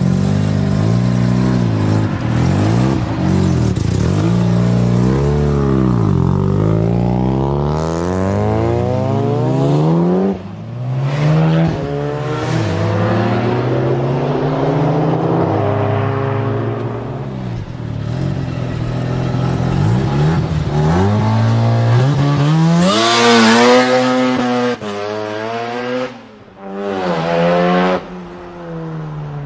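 Mazda RX-7 FD rotary engine revving hard, its pitch sweeping up and dropping back over and over, with a few brief dips in level.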